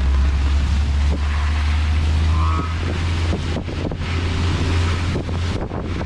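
Wind buffeting the microphone of an open-topped Moke on the move, over a steady low drone of engine and road noise.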